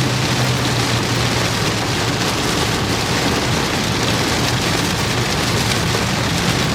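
Heavy rain beating on a moving vehicle's roof and windshield, heard from inside the cabin as a dense, steady hiss over a constant low drone of road and engine.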